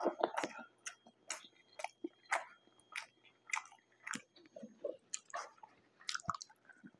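Close-miked chewing of a mouthful of soft sub-sandwich bread and egg: wet mouth and jaw sounds, about two a second.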